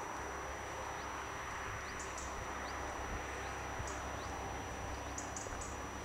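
Small birds chirping, brief high calls every second or so, over a steady outdoor hiss and low rumble.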